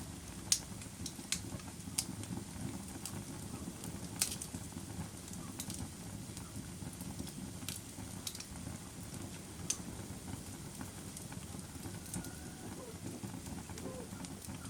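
Wood fire in a fireplace crackling, with sharp pops every second or so over a low, steady rush of burning.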